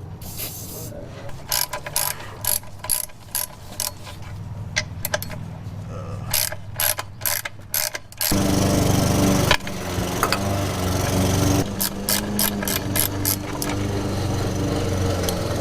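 Hand socket ratchet clicking in short runs while bolts are worked on the transmission. About eight seconds in, a steady low hum starts suddenly and runs on under further ratchet clicks.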